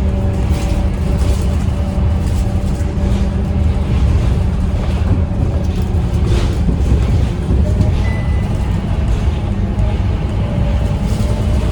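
Scania K230UB city bus under way: the 9-litre Scania DC9 diesel engine runs with a steady low drone and hum, along with short clicks and rattles.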